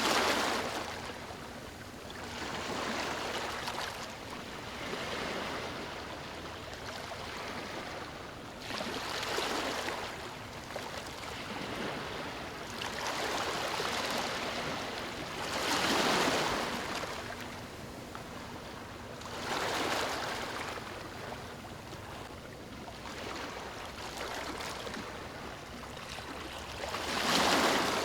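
Ocean surf breaking and washing up a beach, swelling and falling back in surges every few seconds; the biggest waves come at the start, about halfway through and near the end.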